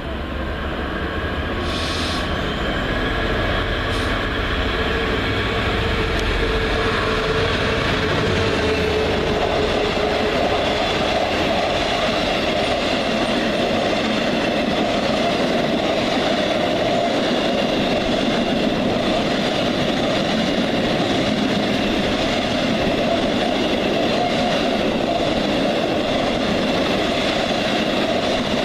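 Electric train running: a steady rumble of wheels on track with a whining motor tone, building up over the first few seconds and then holding.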